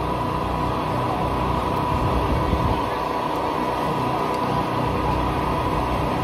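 Steady running machinery: a constant low drone with a steady whine on top, unchanging throughout.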